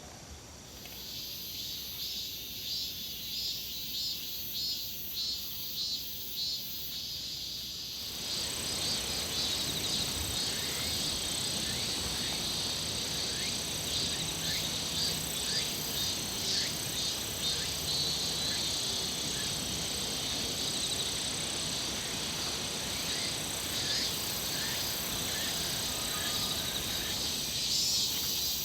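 Insects chirping in a rhythmic, pulsing chorus, joined about eight seconds in by a steady, high-pitched insect drone over a light background hiss.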